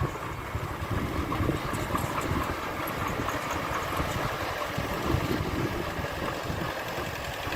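Heavy construction machine's diesel engine running steadily at low revs.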